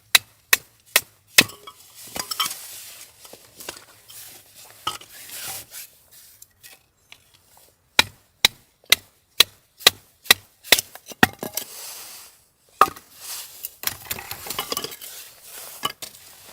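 Repeated sharp chopping strikes on wood: a few blows near the start, then a quick run of about two a second in the middle, with scraping and rustling in between.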